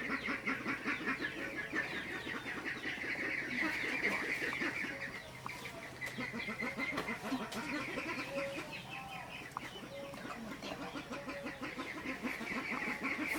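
Chickens clucking, with a dense, fast chatter of chirping over them.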